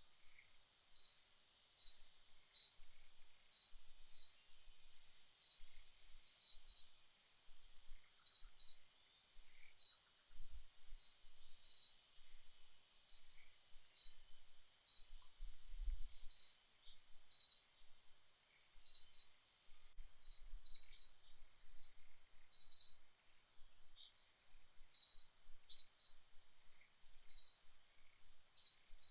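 A bird chirping repeatedly: short high chirps, single or in quick doubles and triples, about once or twice a second, over a steady high-pitched background drone.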